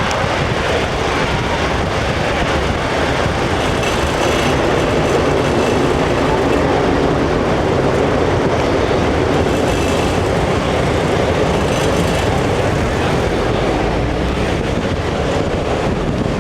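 Air France Airbus A340 jet engines running loud and steady, a continuous low rumble that swells slightly about four seconds in, as the airliner lands.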